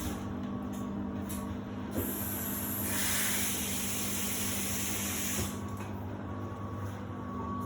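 Samsung WD70T4047CE washer-dryer running with a steady hum. About two seconds in, a loud hiss of water rushing in through its inlet starts, then stops about three and a half seconds later.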